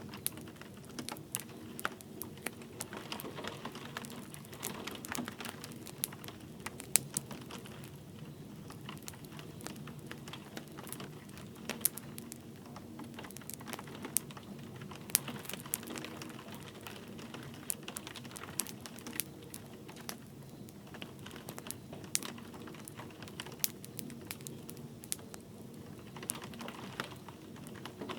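Wood fire crackling in a fireplace, with irregular sharp pops and snaps over a steady hiss of light rain.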